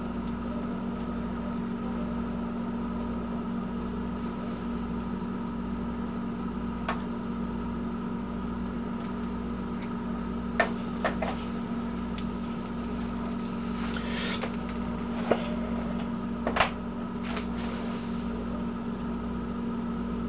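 A steady low mechanical hum, with a few short clicks and knocks scattered through it.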